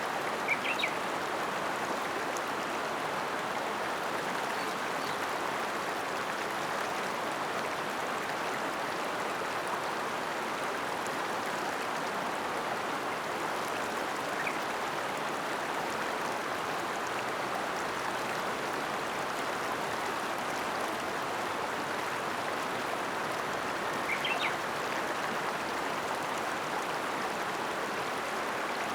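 The Ōta River flowing steadily. A few brief high chirps stand out over it near the start, about midway and again later.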